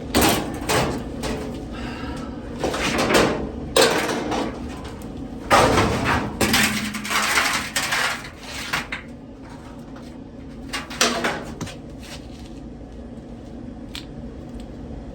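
Metal parts of a Whirlpool dryer being handled during a broken-belt repair: a run of knocks, scrapes and rattles for most of the first nine seconds, then a few isolated clicks.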